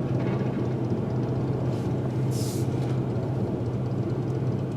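Steady low drone of a car's engine and road noise heard from inside the moving car's cabin, with a short hiss about two and a half seconds in.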